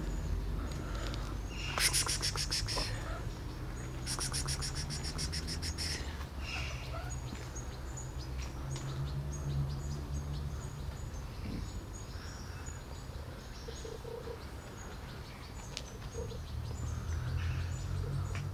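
A bird's rapid rattling chatter in two bursts, about a second and two seconds long, a couple of seconds apart, with a few faint chirps later, over a steady low rumble.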